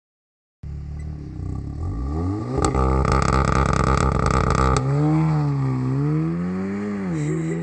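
Audi S3 8V's turbocharged 2.0-litre four-cylinder engine cutting in abruptly about half a second in, revving up hard with a climbing pitch, then holding loud with crackling before the revs dip and climb unevenly.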